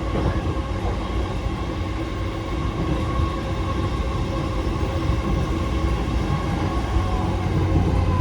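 JR E233-5000 series electric commuter train running, heard from inside the carriage: a steady rumble of wheels on rail with a few steady tones from the drive equipment over it. The rumble swells a little near the end.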